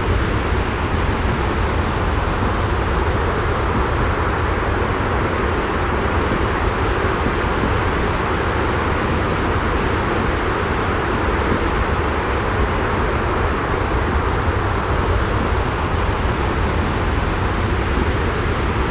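Steady, unchanging rushing white noise with a strong deep rumble, the continuous ambience of a sleep-sound track.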